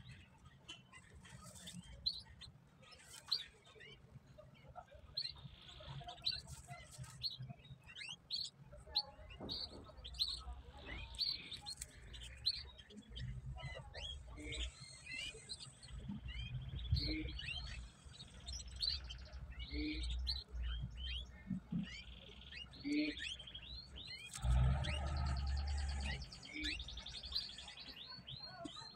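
Small birds chirping and tweeting in quick, repeated short calls over a low steady hum, with a louder low rumbling noise for a second or two near the end.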